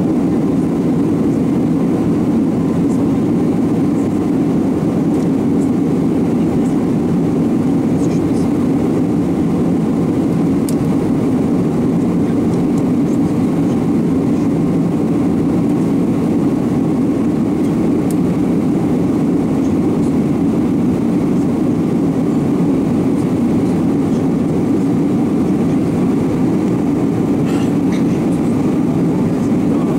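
Steady cabin noise of an Airbus A321 in flight: a constant deep rumble of engines and airflow at an unchanging level, with a few faint ticks.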